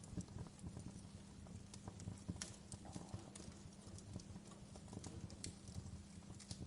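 Wood fire crackling: irregular sharp pops and snaps over a steady low background of burning.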